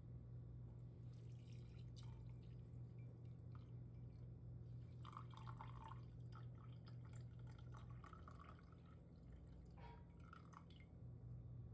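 Faint dripping and trickling of liquid, in short spells about halfway through and again near the end, over a steady low hum.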